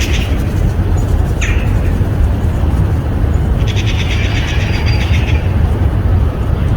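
Songbirds singing: two fast trilled songs of about two seconds each, one in the first moment and one past the middle, with a short downward-sliding call between them, over a steady low rumble.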